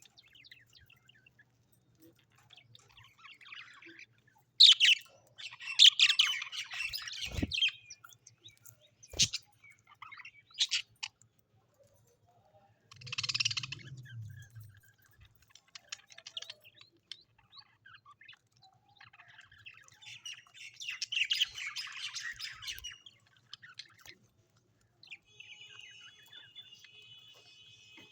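Birds calling in irregular bouts of chirps and harsh squawks. The loudest bursts come a few seconds in, with shorter sharp calls between, and a thinner steady chirping near the end.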